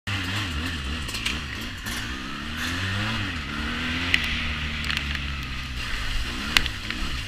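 A 350cc quad bike's engine revving up and down repeatedly as it is ridden, with a few sharp clicks and knocks.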